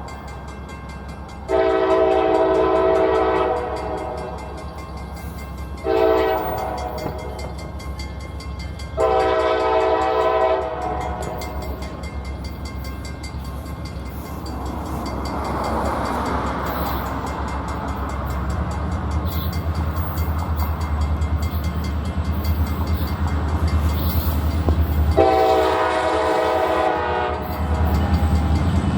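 Diesel freight locomotive's air horn sounding a crossing signal: a long blast, a short one, then another long one, followed by the rising rumble of the locomotive and train approaching, and one more long horn blast near the end.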